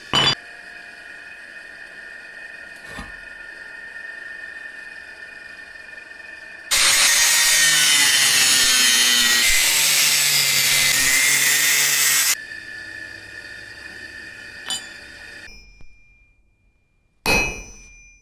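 A power tool working iron: about six seconds of loud, even grinding noise in the middle, between quieter stretches of shop sound. Near the end comes a single sharp metal strike that rings briefly.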